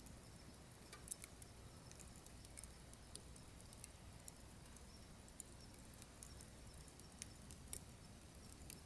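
Firewood burning in a wood stove, crackling with irregular sharp pops and ticks over a low, steady rumble of flame.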